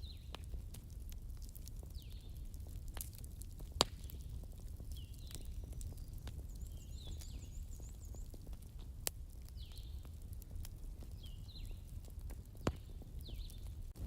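Campfire crackling: scattered small ticks and three sharp pops over a low steady rumble of the flames. Short high chirps repeat every second or two.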